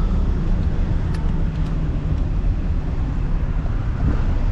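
Steady low rumble of a vehicle's engine and drivetrain while driving over rough off-road ground, with a few faint knocks.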